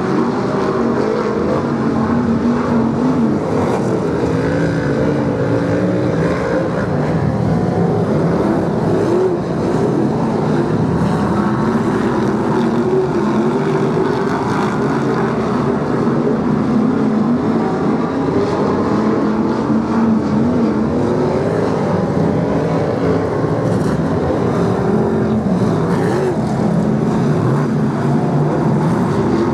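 A field of BriSCA F1 stock cars racing, their V8 engines running hard together in a continuous, loud, overlapping drone whose pitches waver up and down as the cars lap.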